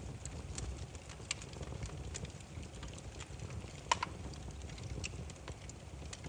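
Wood fire burning with irregular crackles and pops over a low steady rumble of the flames, one sharp louder pop about four seconds in.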